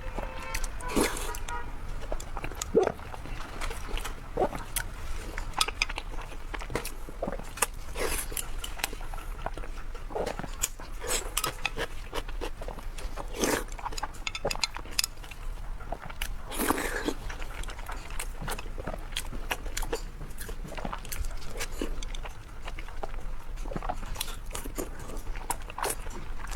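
A person biting and chewing food close to the microphone, heard as many short, irregular clicks.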